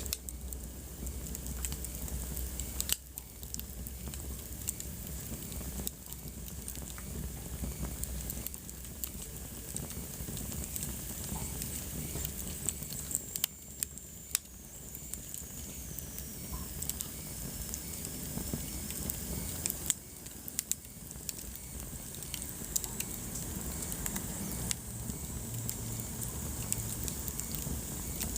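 Wood fire burning in a fireplace, crackling steadily with many small sharp pops over a soft hiss. A faint high whistle slowly falls in pitch about halfway through.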